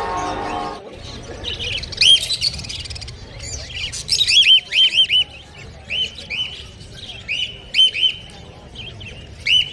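Caged birds chirping: many short, sharp, high chirps, often in quick pairs and runs, starting about two seconds in.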